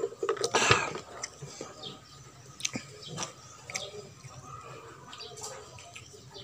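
Close-up eating sounds: a person chewing fried fish and rice, with scattered wet mouth clicks and smacks and one louder burst about half a second in.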